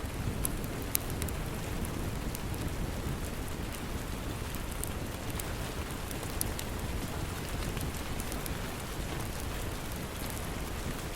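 Steady heavy rain with scattered sharp pops and crackles from a wood fire. A louder pop comes about a second in and another about six seconds in.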